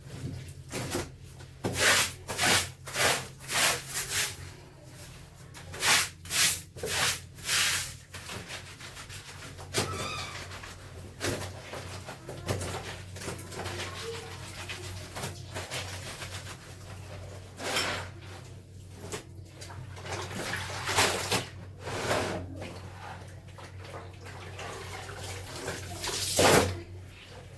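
Wet clothes being scrubbed by hand: a run of quick rubbing strokes, about two a second, for several seconds, then softer rubbing with a few more strokes and one loud stroke near the end.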